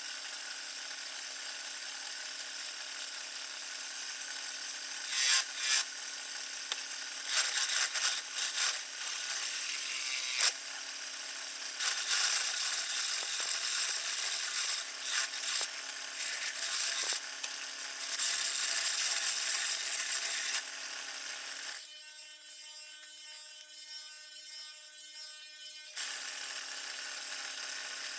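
Wood lathe motor humming steadily while a turning tool works the spinning rotten-alder blank in loud, rough stretches of varying length. For a few seconds near the end the tool is off the wood and only the quieter motor hum is heard.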